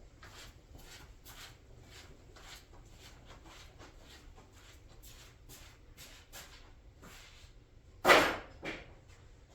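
Hand work on shifter parts: faint short scraping or tapping strokes about twice a second, then a loud knock about eight seconds in, followed by a smaller one.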